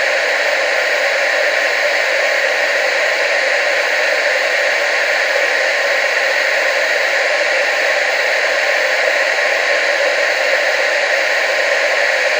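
Steady TV static hiss, an even rushing noise with no change in level, brightest in the upper-middle range and thin in the bass.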